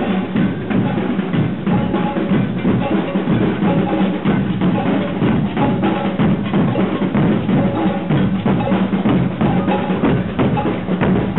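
Procession drums beating continuously, snare and bass drum, with many dense strikes.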